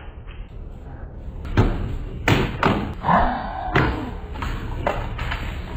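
A series of irregular thumps and knocks, with a short voice-like sound about halfway through.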